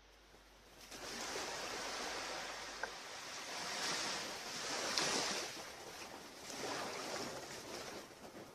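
Sea surf washing on a beach: a steady rush of waves that comes in about a second in and swells twice.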